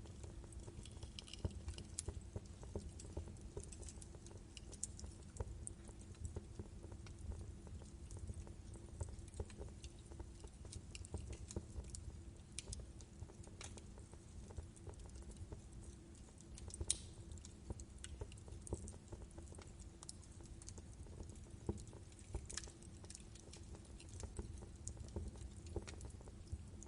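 Wood fire burning in a fireplace: a steady low rumble of flames with frequent irregular crackles and pops from the logs, one sharper pop about two-thirds of the way through.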